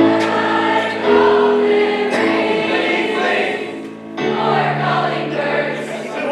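High school choir singing a Christmas song, holding long chords that change about every second, with a brief dip in loudness just before four seconds in.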